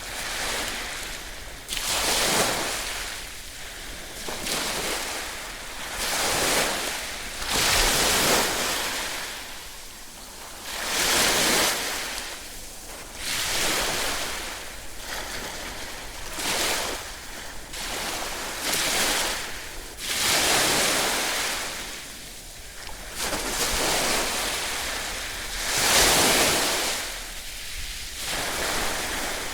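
Ocean waves breaking on a shore, one wash after another every couple of seconds, each a rushing hiss that swells and fades.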